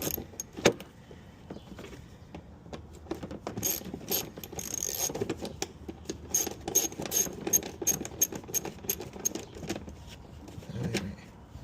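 Socket ratchet clicking in quick runs as small bolts holding the front bumper's plastic cover are backed out, with a sharper metal knock about half a second in.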